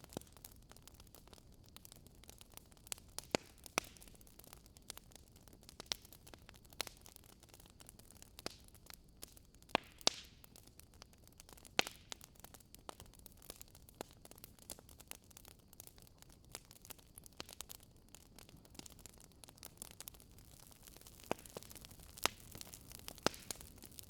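Wood fire in a fireplace crackling: a soft steady hiss with irregular sharp pops from the burning logs, a few louder ones scattered through.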